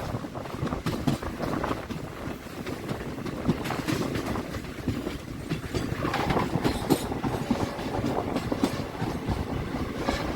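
Passenger express train running on the track, its wheels clattering with irregular clicks and knocks over the rail joints.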